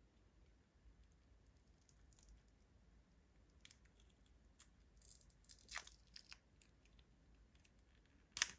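Near silence with faint rustling and light ticks. One sharp click comes near the end.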